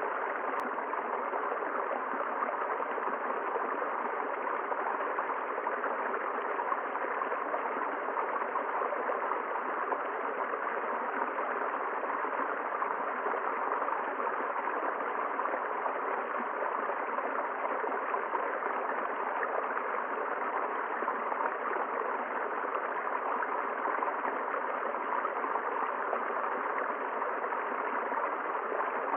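River water rushing and gurgling steadily over rocks, an even, unbroken flow.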